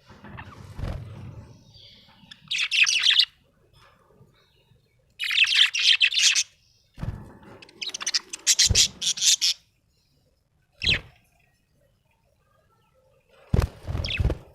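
Budgerigar chirping in five separate bursts of rapid, high-pitched chatter, some over a second long and one a single short chirp. Several dull low thumps come in among them.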